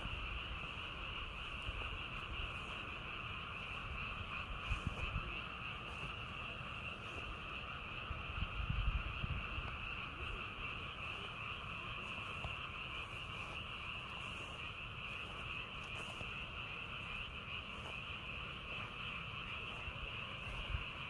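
A dense chorus of many frogs calling together, blending into a steady trill, with a couple of low rumbles about five and nine seconds in.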